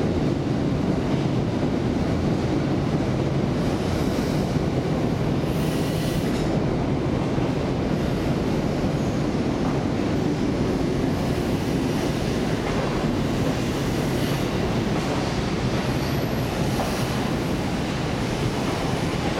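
24-series sleeper coaches rolling slowly out of the station on their wheels: a steady low rumble on the rails, with faint high wheel squeals now and then.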